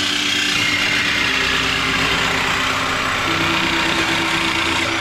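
11th-generation Honda Civic Si's 1.5-litre turbocharged four-cylinder idling steadily through a muffler-deleted exhaust. It is loud, with a steady hiss over the engine tone, and cuts in suddenly at the start.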